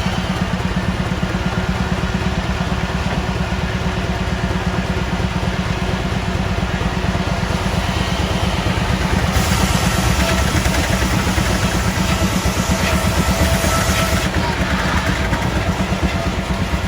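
An engine running steadily with a rapid low pulsing, with a hiss that comes in about halfway through and stops a few seconds later.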